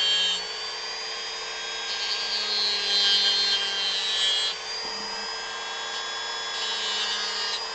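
Dremel rotary tool running with a steady high whine. It turns louder and harsher twice, about two seconds in and near the end, as the bit grinds into the wood.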